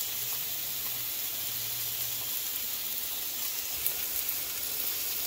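Frozen hamburger patties and sliced red onions sizzling steadily on a hot griddle.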